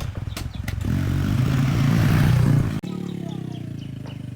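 An engine revs up, running harder for about three seconds. The throttle is then let off suddenly and the engine falls back, its pitch sliding down as it settles.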